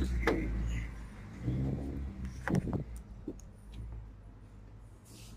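BMW 525i inline-six engine idling with the hood open. There is a low steady hum, short pitched sounds near the start and again about a second and a half in, and a few sharp knocks about two and a half seconds in.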